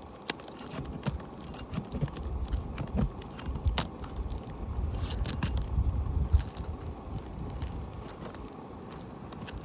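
Scattered clicks, scrapes and crackling of brittle asphalt shingles being handled and worked loose during removal.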